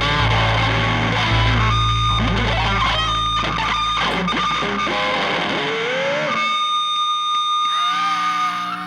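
Electric guitar played through the JPTR FX Warlow effects pedal, distorted. Heavy low notes ring for the first five seconds, then a single high note is held for the last few seconds and bent near the end.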